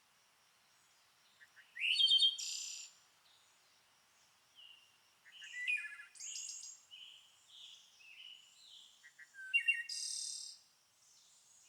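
Songbirds singing and chirping in varied short phrases, including rising notes and quick trills, with the loudest bursts about two seconds in, around six seconds, and about ten seconds in, and softer chirps between.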